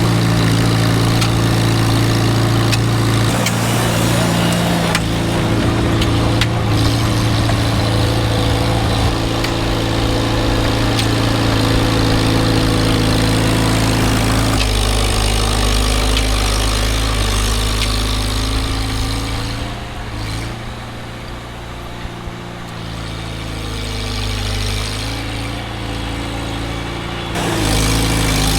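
A small farm tractor's engine running steadily as it is driven, its pitch shifting a few times. It runs quieter for a stretch past the middle, then picks up again near the end.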